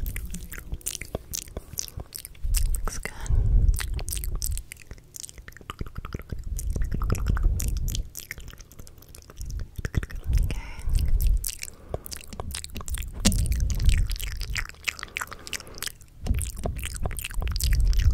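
ASMR mouth sounds close to the microphone: a dense run of wet clicks and smacks. Low, muffled swells come and go every few seconds.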